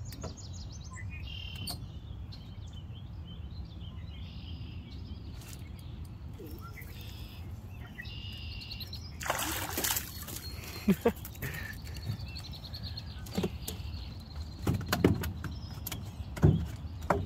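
Birds calling, a run of repeated chirps over a steady low hum, with a brief rushing noise about ten seconds in and a few scattered knocks near the end.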